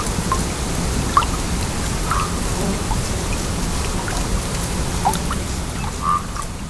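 Stream water flowing steadily, a continuous rush with many small gurgles and plinks of water over stones, starting to fade out near the end.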